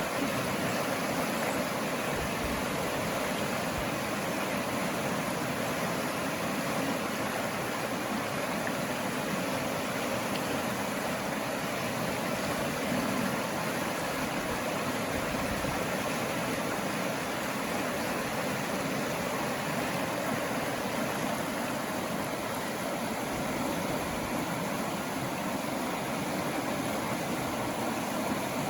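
Running water, a steady even rush with no breaks.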